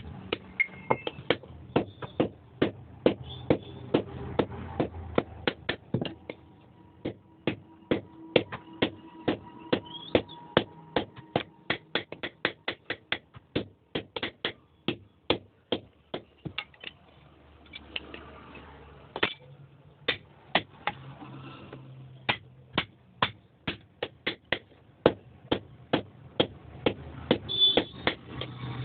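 Hammer blows on iron being forged into an axe, struck in a steady rhythm of about two to three a second, with a short pause past the middle.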